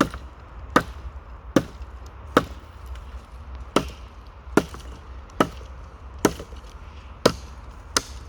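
Small hatchet chopping dry deadwood: about ten sharp blows at a steady pace, a little over one a second.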